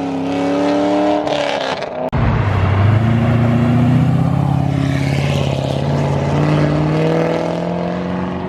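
A car engine revving hard under acceleration. After a sudden cut about two seconds in, a deeper-toned car engine runs loud as the car pulls away, its pitch climbing slightly near the end.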